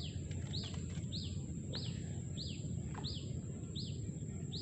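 A bird calling over and over, a short falling chirp repeated evenly about every two-thirds of a second, over a steady high insect whine and a low background rumble.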